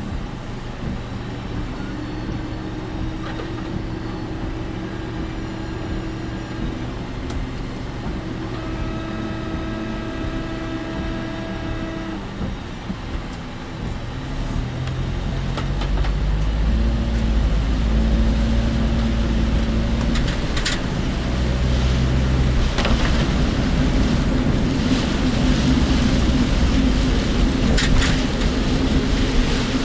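A car being driven: a steady engine hum and road noise. It grows louder and deeper about halfway through as the car picks up speed, with a couple of brief sharp clicks later on.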